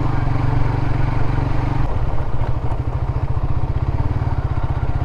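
Motorcycle engine running steadily under way, a fast even pulse of firing strokes, with the engine note shifting slightly about two seconds in.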